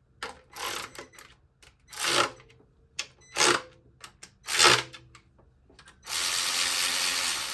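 Cordless power drill/driver running intake bolts in about five short bursts, each spinning down at the end, then one steady run of about two seconds near the end.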